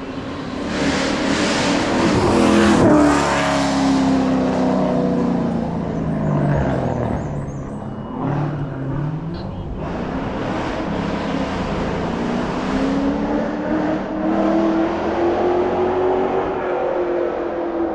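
Race car engine at high revs, passing closest and loudest about three seconds in, then pulling away; the engine note falls and climbs again several times, around eight seconds in and then steadily toward the end.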